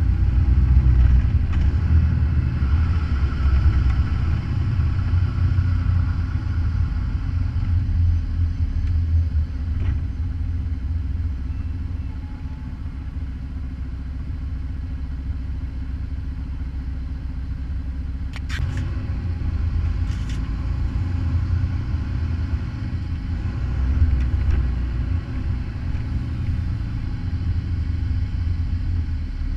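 Semi truck's diesel engine running with a steady low rumble, a little softer in the middle. Two short sharp clicks come about two-thirds of the way through.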